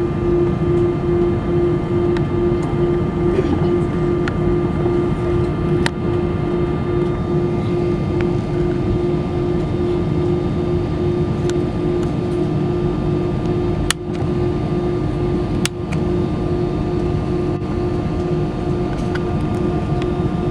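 Airbus A320 passenger cabin noise: the steady drone of the engines and air conditioning, with a strong constant hum. A few faint clicks are heard, the sharpest about 14 and 16 seconds in.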